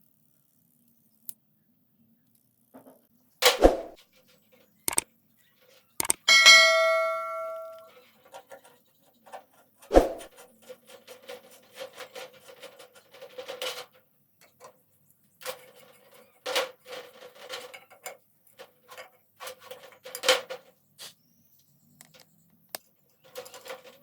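Metal objects being knocked and handled. About six seconds in, one strike rings out like a bell for a second and a half, followed by a run of irregular knocks, clanks and rattles.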